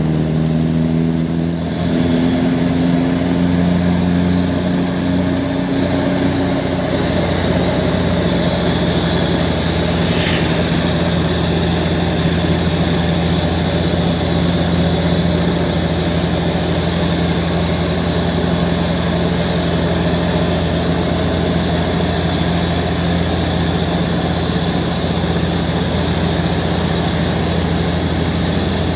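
Heavy truck's engine running steadily. Its pitch rises slightly over the first few seconds, then holds an even drone.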